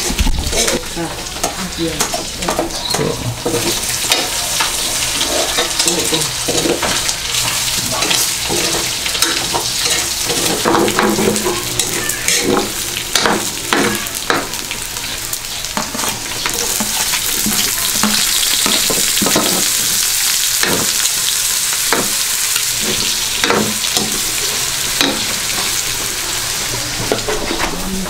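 Pork pieces sizzling in hot oil in a steel wok, stirred with a metal ladle that scrapes and clicks against the pan. The sizzle grows louder a little past the middle.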